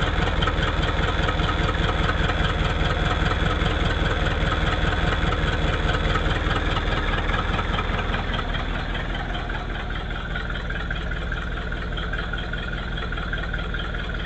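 1959 Ford Thunderbird's V8 engine idling steadily, running after its no-start trouble. About nine seconds in it settles quieter.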